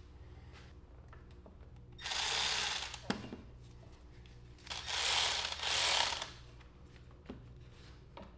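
Hand ratchet clicking in two quick bursts of about a second each, tightening hose clamps on intake rubbers, with a short knock of the tool right after the first burst.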